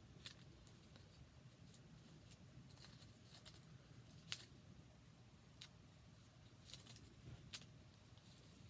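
Near silence with a few faint, scattered clicks and taps, the loudest about four seconds in, from hands handling paper craft pieces and a roll of glue dots.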